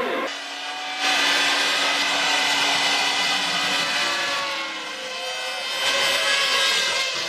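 1998 Formula One cars' V10 engines running at high revs, a high-pitched multi-tone scream whose pitch drifts up and down. The sound changes abruptly twice in the first second.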